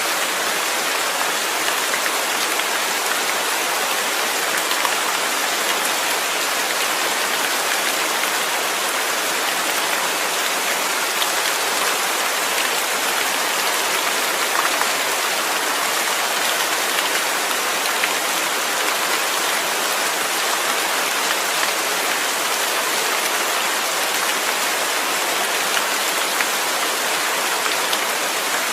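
Steady rain falling, with scattered drops ticking and pattering.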